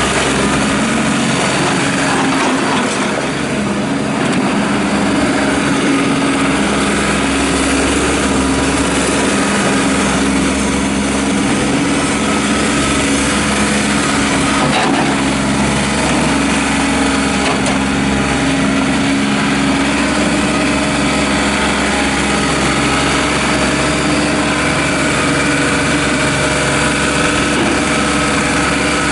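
Diesel engine of a John Deere 3720 compact tractor running steadily at a constant speed.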